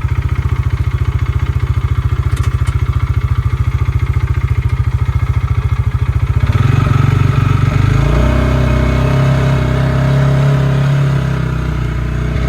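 Explorer Bighorn UTV's 400cc engine running with a steady, fast beat, then about six and a half seconds in it picks up and runs louder and fuller as the vehicle speeds up.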